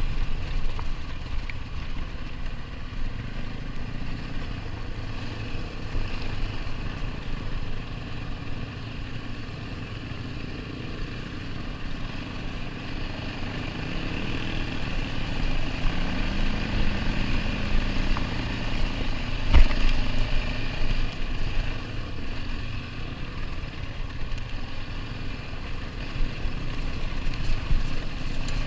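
ATV engine running steadily while riding a dirt trail, with a continuous low rumble. A single sharp knock comes about twenty seconds in.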